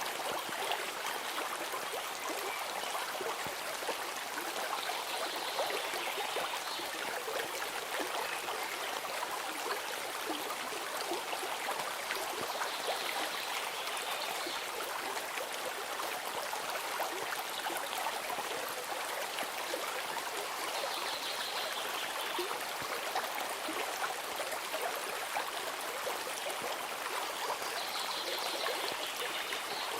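A babbling stream of running water, flowing steadily. A faint, brief high-pitched call sounds about every eight seconds over it.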